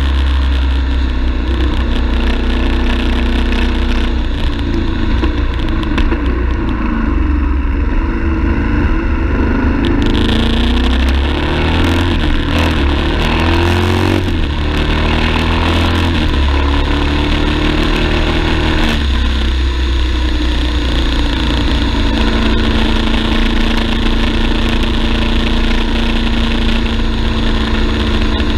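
BMW F 850 GS's parallel-twin engine running under way, heard from on the bike with wind and road noise. The engine pitch rises and falls several times around the middle as the speed changes, and the rushing noise grows louder about ten seconds in.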